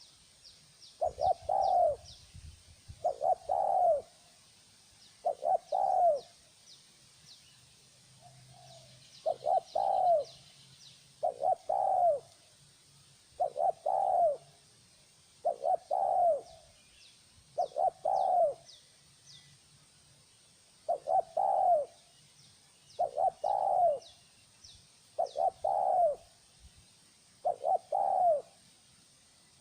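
Spotted dove cooing: a short phrase of a few notes, repeated about every two seconds, with one fainter call and a longer pause midway. Small birds chirp faintly and high-pitched in the background.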